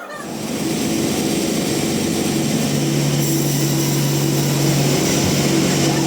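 Band sawmill running, a loud steady machine noise with a low hum under it, which cuts off abruptly just after the end.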